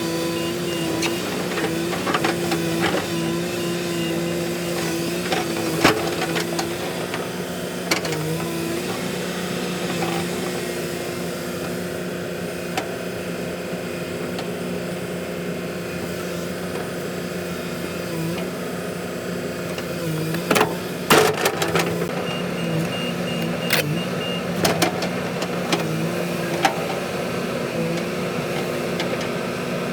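Diesel engine running steadily, its note dipping briefly now and then, with scattered sharp metal clicks and a cluster of knocks about two-thirds of the way through.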